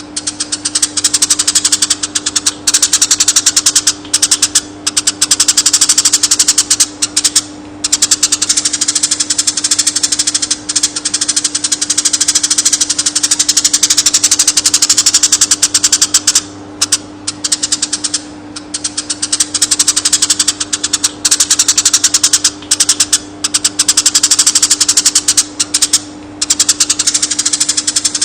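Eurasian tree sparrow singing long, very fast rolling trills, runs of several seconds broken by short pauses, over a steady low hum.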